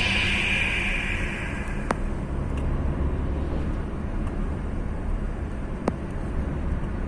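Car driving on a highway: a steady low rumble of road and engine noise, with the tail of a song fading out in the first second or so and two faint clicks about two and six seconds in.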